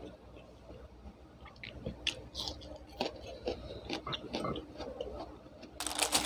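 Close-up mouth sounds of someone chewing a mouthful of rice and fried tempe with sambal, eaten by hand, with small wet clicks and smacks. Near the end comes a brief, louder rustle.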